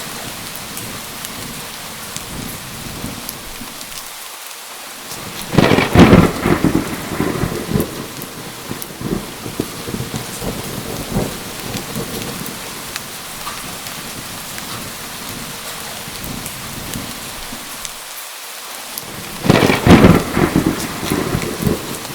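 Steady rain with two claps of thunder, about five seconds in and again near the end, each loud crack rolling off into a rumble.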